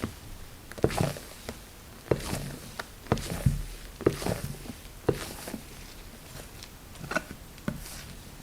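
Thick castella batter being mixed by hand in a bowl: irregular scraping and slapping strokes against the bowl, roughly one a second, with a short pause partway through.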